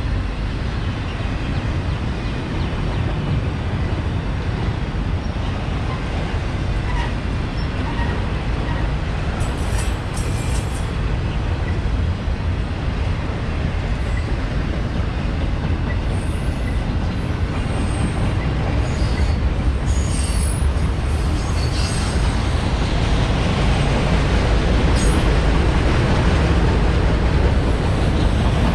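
CSX freight train cars rolling past with a steady, loud rumble, and brief high wheel squeals about a third of the way in and again past the middle.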